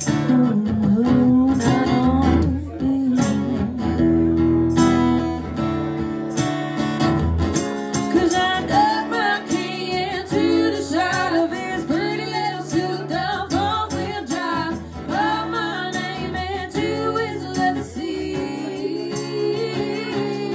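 Live band music: strummed acoustic guitar over a bass line. A bending melody, singing or a lead instrument, comes in about eight seconds in and runs on.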